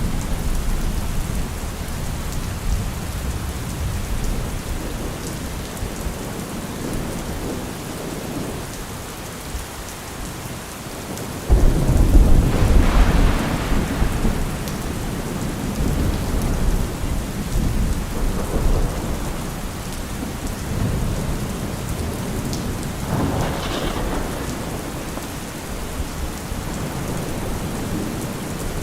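Steady rain falling in a thunderstorm, with low rolling thunder. A sudden loud thunderclap comes about a third of the way in and rumbles on for several seconds, and a smaller peal follows later.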